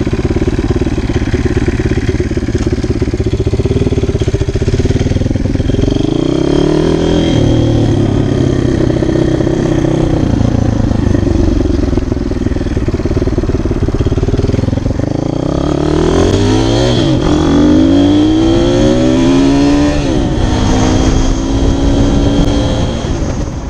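Orion RXB150 motorcycle engine pulling away and accelerating, its pitch climbing and dropping back at each gear change, once about six seconds in and several times in quick succession in the last third.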